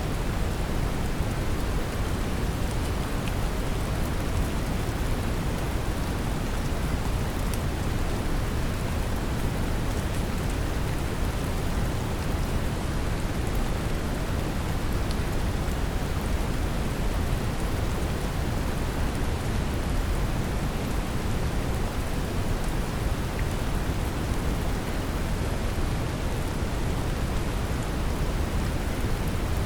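Steady brown noise, deep and rumbling, blended with gentle rain falling and pattering, with a few faint drop ticks. It holds an even level throughout.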